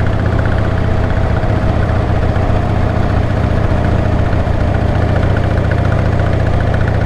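Older motorcycle engine running steadily at cruising speed, with road and wind noise.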